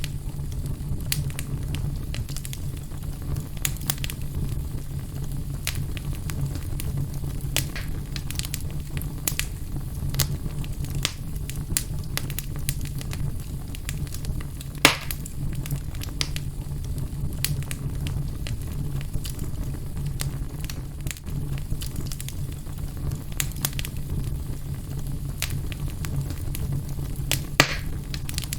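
Fire burning in a fireplace, crackling with scattered sharp pops over a steady low rumble; two louder pops come about halfway through and near the end.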